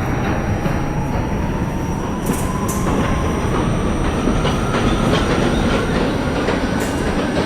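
R68A subway car running on the rails: a steady rumble of wheels on track with light clacks over rail joints. A thin whine rises slowly in pitch as the train picks up speed.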